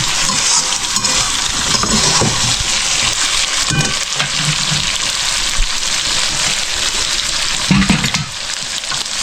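Meat frying and sizzling steadily in a pan with onion, tomato and spices.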